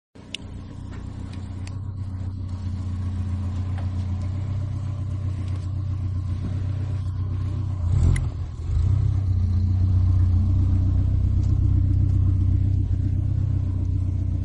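Ford Escort RS2000's four-cylinder engine running steadily with a low, even note, with a brief louder burst about eight seconds in.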